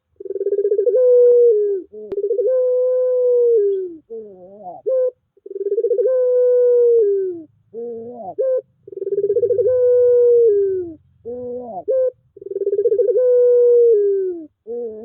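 Puter pelung dove cooing: five long drawn-out coos, each about one and a half to two seconds and dipping at the end, most of them led in by a short warbling, rising note.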